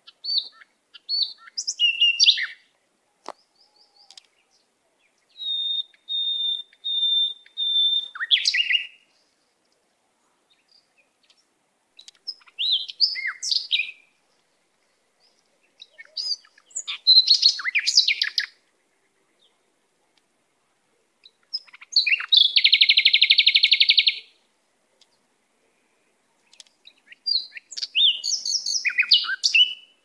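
Songbirds singing in short, high-pitched phrases every few seconds: a run of about five repeated whistled notes, a rapid buzzy trill a little past the middle, and quick chirping phrases.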